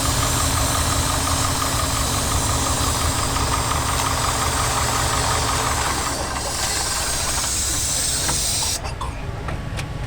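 Air-cooled Deutz engine of a rat rod running, with a loud steady hiss over it that cuts off suddenly near the end.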